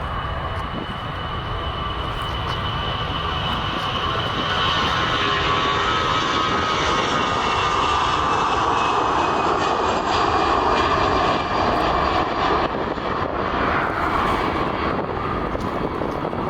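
Airliner's engines passing, the roar growing louder to a peak about ten seconds in and then fading, with a whine that falls slightly in pitch.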